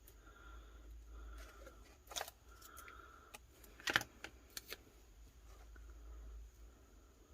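Paper and small craft pieces being handled on a desk: faint rustling with a few light taps or clicks, the sharpest about four seconds in.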